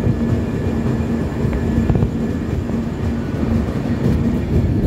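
LHB passenger coach rolling out of a station, heard through its open door: a steady low rumble of wheels on rail with a steady hum.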